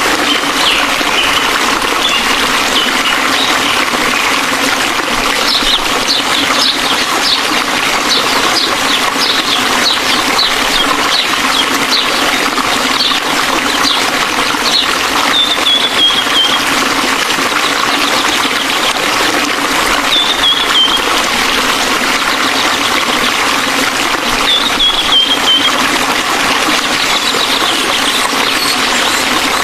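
Waterfall rushing steadily, with a bird's high chirps and short falling trills over it.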